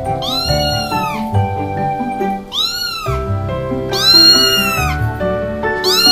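Domestic cat meowing four times, each meow rising and then falling in pitch, over background music.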